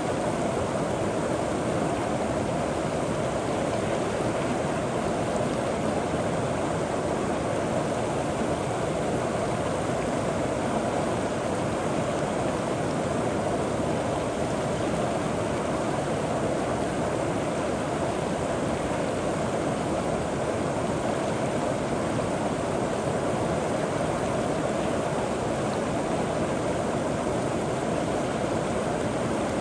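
River water flowing and gurgling over rocks, a steady even rush without breaks.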